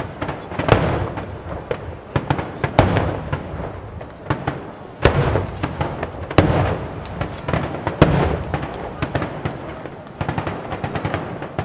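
Aerial fireworks shells bursting: a string of loud booms about every one to two seconds, with crackling between them and a quick run of small crackles near the end.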